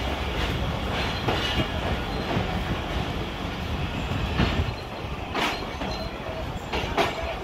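Passenger train pulling out of a station, heard from an open coach doorway: a steady low rumble of the wheels on the track, with a few sharp clicks at irregular intervals.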